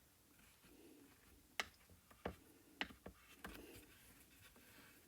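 Near silence with four faint, sharp clicks spread over the middle of the stretch.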